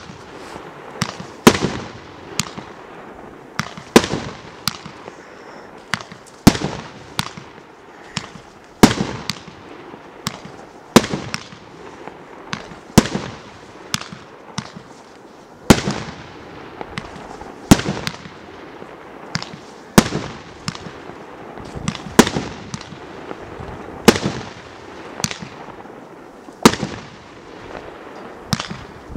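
Multi-shot fireworks cake, the LU6101 "Для друзей" battery, firing in rapid succession: sharp bangs about once a second as shells rise and burst, with a steady hiss between them.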